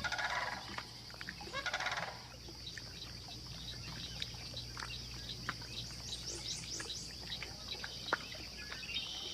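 Swamp wildlife: two raspy, pulsing animal calls in the first two seconds over a steady high-pitched hum, with scattered clicks and a quick run of short, high falling chirps about six seconds in.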